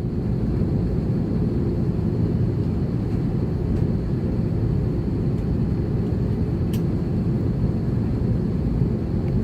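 Steady low rumble of cabin noise inside an Airbus A330-300 on the ground before takeoff, from its Rolls-Royce Trent 700 engines running at low power and the cabin air system, with a faint high steady hiss and a small click about seven seconds in.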